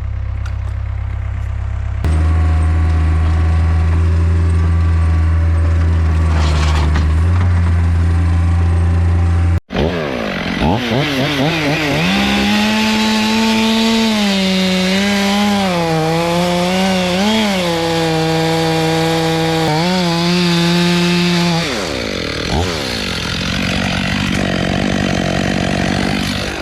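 Chainsaw at full throttle cutting into beech wood, its pitch dipping and recovering as the bar bites, then dropping off about 22 seconds in. Before an abrupt break about ten seconds in, a lower, steady engine drone.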